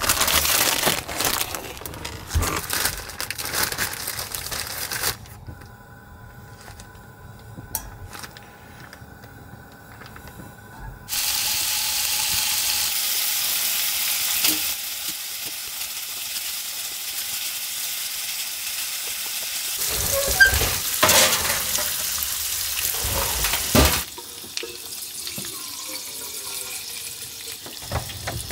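Breakfast food sizzling in a hot pan: a steady frying hiss that starts and cuts off abruptly. It is preceded by rustling and handling of plastic food bags.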